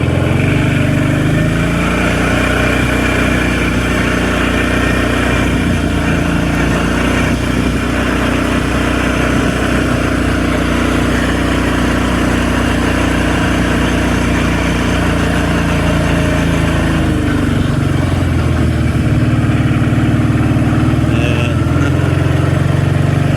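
A vehicle's engine running steadily, its note shifting about two-thirds of the way through as the engine speed changes.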